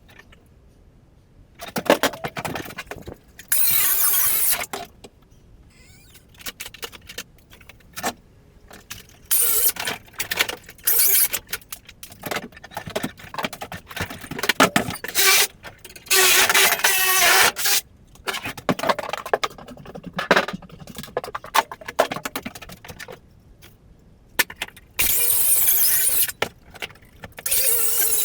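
Demolition work on a bathroom floor: scattered knocks and clatter of wood and debris, with several one- to two-second bursts of scraping or cutting noise.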